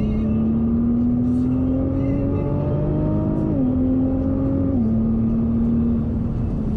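Nissan GT-R R35's twin-turbo V6 pulling hard, heard from inside the cabin: the engine note climbs steadily, then steps down in pitch twice, about three and a half and five seconds in, over a steady rush of noise.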